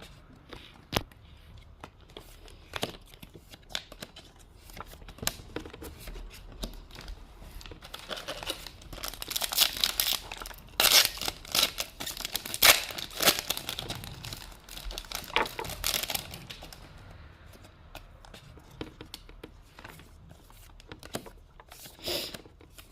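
Foil Pokémon booster pack wrapper being crinkled and torn, with scattered light clicks and taps; the crinkling is densest and loudest from about eight to sixteen seconds in.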